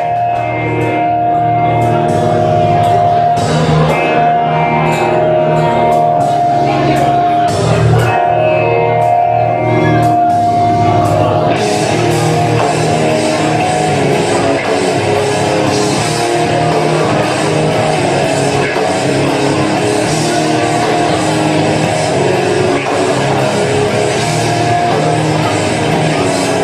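Live rock music led by guitar, with held notes over a steady bass. About eleven seconds in the sound gets fuller and brighter as more of the band joins in.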